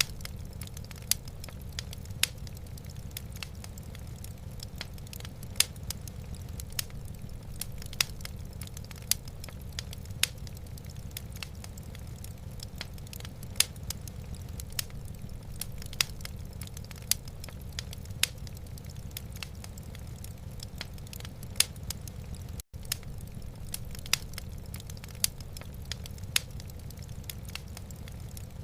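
Wood fire burning in a fireplace: irregular sharp crackles and pops over a steady low rumble, with the sound cutting out for an instant about 23 seconds in.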